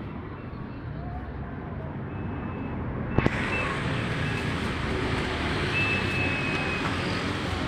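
Street traffic noise: motor vehicles running steadily, with a sharp double click about three seconds in.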